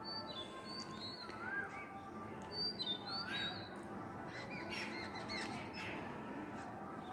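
Small birds chirping faintly, a scatter of short high calls and a few rising-and-falling whistled notes.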